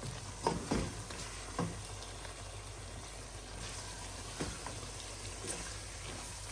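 A spoon stirring spiced chicken curry in a pan, scraping and knocking against it a few times, over a steady sizzle and bubble of the cooking.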